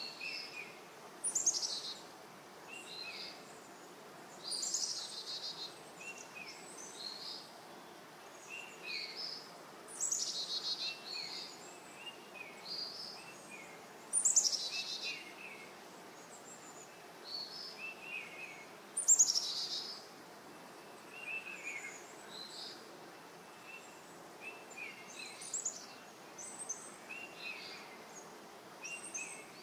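Several songbirds singing. One bird repeats a loud, falling song about every four to five seconds, with short chirps from others in between, over a faint steady background noise.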